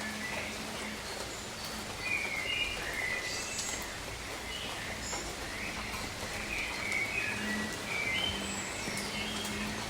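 Steady rain falling on rainforest foliage, with birds chirping in short, frequent calls over it.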